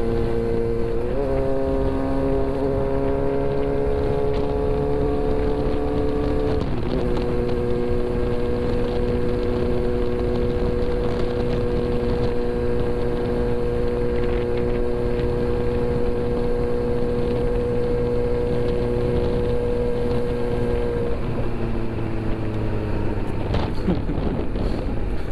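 Kawasaki Z900's inline-four engine under way. Its pitch climbs, drops at a gear change about six and a half seconds in, then holds steady for a long stretch at cruising speed. It falls away as the bike slows near the end.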